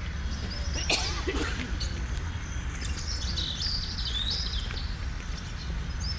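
Wild birds singing: a run of high, quick chirping phrases, busiest in the middle, over a steady low rumble. A brief thump about a second in.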